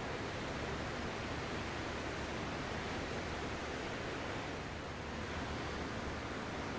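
Ocean surf: a steady, even rush of waves washing, easing slightly about five seconds in.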